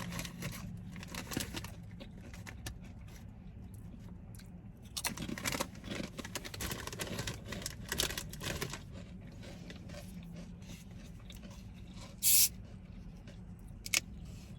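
Eating and food-wrapper noises: crinkling, rustling and crackly clicks in a cluster about five to nine seconds in, and a short sharp crackle near the end. A steady low hum of traffic runs underneath.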